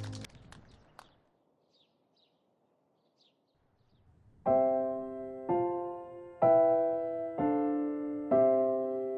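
A sustained chord cuts off at the start, followed by a few clicks and a near-silent gap with a few faint high chirps. From about four and a half seconds in, piano chords are struck about once a second, each ringing and fading: the introduction of the next song.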